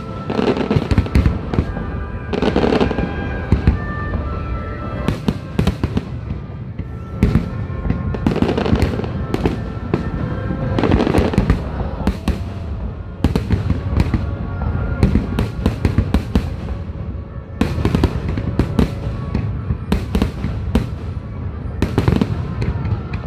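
Aerial fireworks bursting in quick succession, many sharp bangs and crackles one after another over a deep rumble, with music playing underneath.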